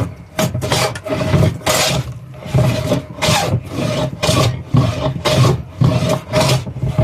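A hand tool worked back and forth over pine wood, rubbing or rasping in an even rhythm of about two strokes a second.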